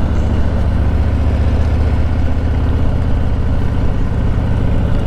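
Harley-Davidson Softail Slim's V-twin engine running at low speed with a steady, deep pulsing exhaust note.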